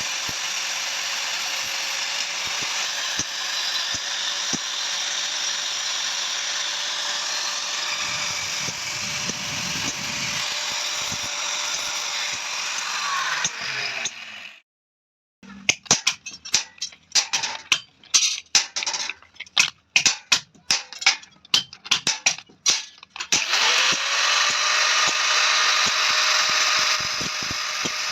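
An electric power tool's motor runs steadily, then winds down and stops. After a short silence comes a run of irregular sharp knocks, about three a second, then the motor starts again, its pitch rising, and runs steadily.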